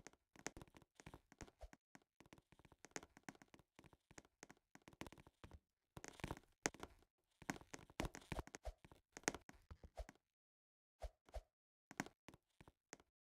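Faint, irregular taps and knocks, thick for about ten seconds, then only a few scattered ones between stretches of silence.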